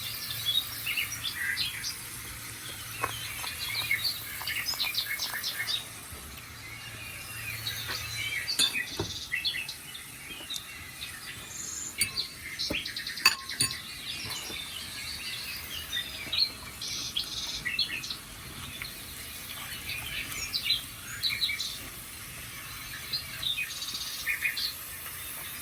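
Recorded birdsong played from a TV: many birds chirping and twittering in quick, high calls, with a few sharp clicks in between.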